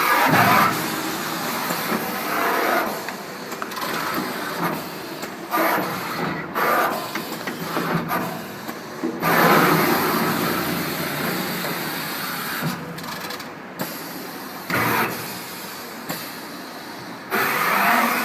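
Full-servo eight-colour pad (tampo) printing machine running through its print cycles: a steady mechanical hiss broken every few seconds by louder surges as the heads and pads move.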